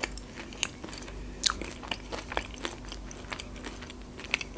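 A person chewing a crispy fried breaded chicken strip, with scattered crunches and clicks and one sharper crunch about a second and a half in.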